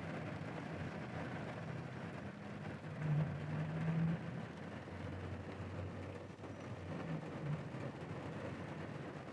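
Steady rain on a car stopped at the roadside in a storm, with a low steady hum underneath. A louder low rumble swells about three seconds in and fades a second later.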